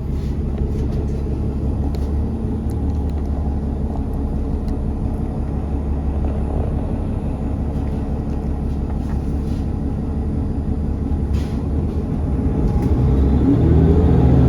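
Steady low rumble of a city bus heard from inside. Near the end, the engine note rises and gets louder as the bus accelerates.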